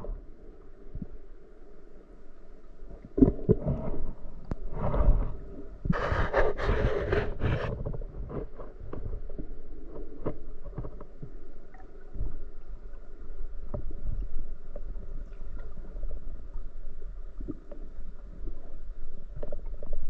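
Muffled, low water sounds recorded through a diving camera, with several short rushing bursts like breaths and bubbles, the longest about six to seven and a half seconds in, and small scattered clicks.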